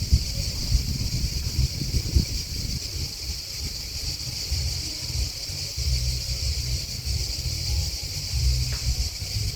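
Steady high-pitched chorus of grasshoppers and crickets singing, over an uneven low rumble.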